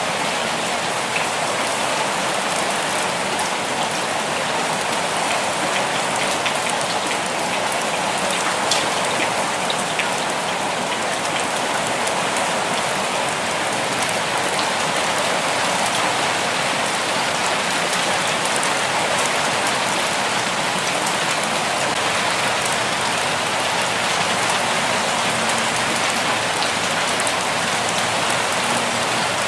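Steady rainfall, drops pattering on a surface with the odd louder drop.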